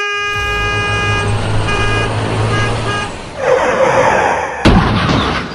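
A motor vehicle's engine rumbling under a held pitched tone that breaks off into several short blasts, then a rushing noise and one sharp bang a little over four and a half seconds in.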